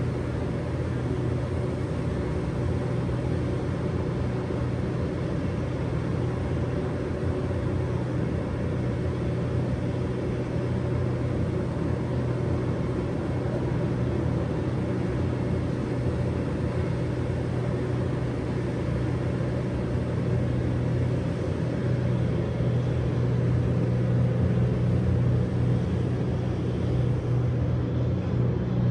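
Steady low city hum at night: distant traffic rumble under a constant droning tone, swelling slightly near the end.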